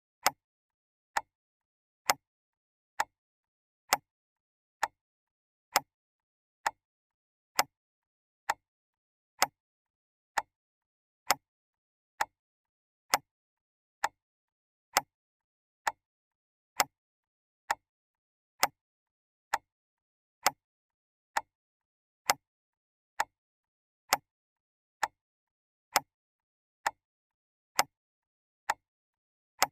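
Clock ticking steadily, one sharp tick a little under every second, with silence between the ticks.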